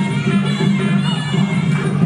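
Traditional Khmer fight music of the kind played live during Kun Khmer bouts: a wavering reed-pipe melody over a pulsing drumbeat.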